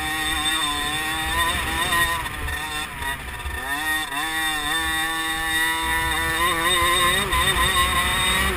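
50cc two-stroke motocross bike engine revving hard, its high buzzing pitch rising and falling with the throttle, dropping away about three and a half seconds in and climbing again.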